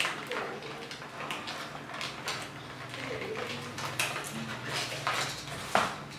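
Toy packaging handled as the toy is taken out of its box: irregular clicks, crackles and light knocks, several a second.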